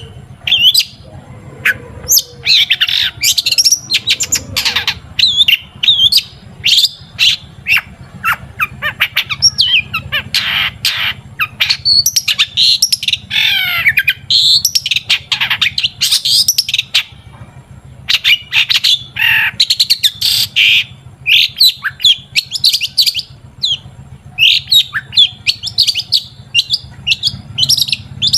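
Long-tailed shrike (cendet) singing vigorously: fast runs of sharp chirps, trills and harsher notes, broken by short pauses. A steady low hum sits beneath.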